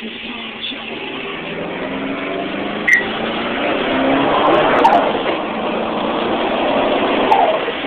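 Nissan SR20DET turbocharged four-cylinder engine in a Ford Escort, heard from inside the cabin, pulling under acceleration, its pitch and loudness climbing over the first four or five seconds. A sharp click sounds about three seconds in.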